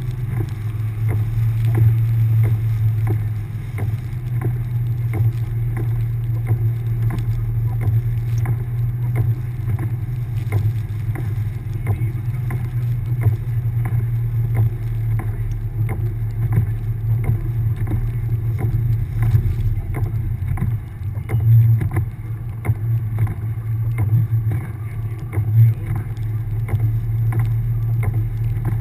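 1999 Subaru Forester's flat-four engine pulling steadily as the car drives through deep snow: a low hum, with frequent small knocks and rattles throughout.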